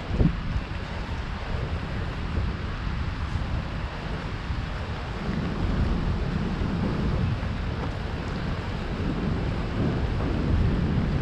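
Rain on a street with wind buffeting the camera microphone: a continuous low rumble under a steady hiss, with a short thump just after the start.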